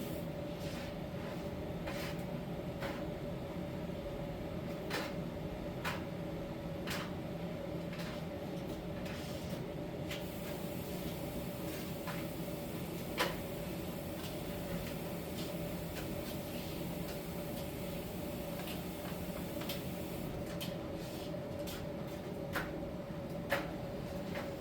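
Miele T1 heat-pump tumble dryer running in its drying phase: a steady hum with a held mid-pitched tone, and a few light clicks at irregular intervals.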